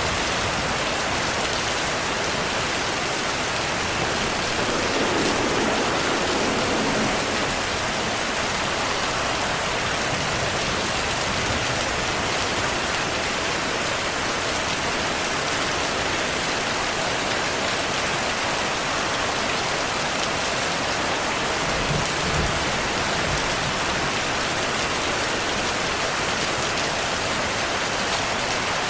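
Steady, heavy rainfall, an even dense hiss of drops on surfaces. A low rumble swells briefly about five seconds in and again a little past twenty seconds.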